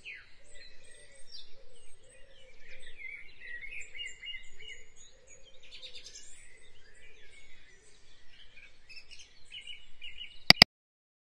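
Several birds chirping and trilling over a faint outdoor background, ending with two sharp clicks.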